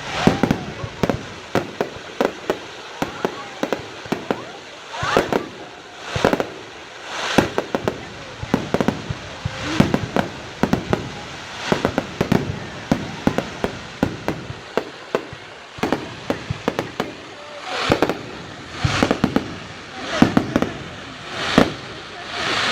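Fireworks going off: a steady run of sharp bangs and pops, coming in clusters every second or two.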